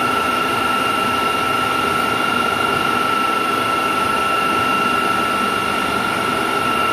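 Heavy machinery running steadily with a constant high-pitched whine over a dense mechanical din.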